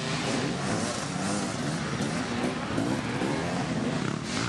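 Several dirt bike engines revving at once, their pitches rising and falling and overlapping as the riders accelerate, shift and back off.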